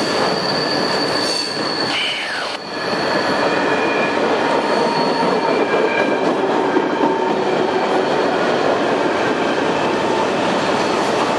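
Flatcars loaded with trash containers rolling past close by: a steady rumble and rattle of steel wheels on rail, with thin, high wheel squeal tones over it. The noise dips briefly about two and a half seconds in.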